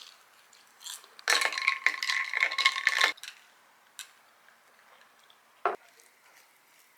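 Metal cutlery clinking and rattling against a ringing dish for about two seconds, followed by a single light tap and, near the end, a short knock.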